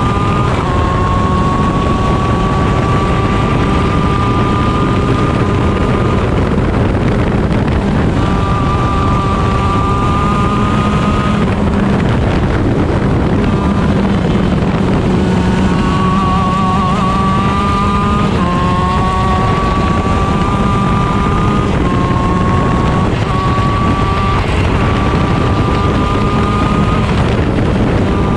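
Onboard sound of a 125cc shifter kart's Honda two-stroke engine at racing speed. Its pitch climbs under throttle and falls away a few times where the driver lifts and brakes for corners, then steps up through quick upshifts in the second half. Wind noise on the microphone runs under it.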